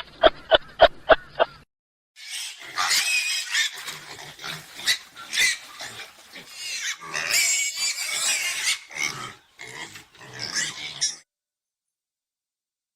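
Animal calls: a quick run of about six short, evenly spaced pitched calls, then after a brief gap about nine seconds of loud, noisy, irregular calling that stops near the end.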